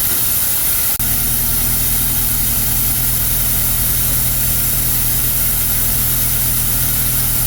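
Steady, loud hissing spray in a workshop. About a second in, a click is followed by a steady low motor hum under the hiss.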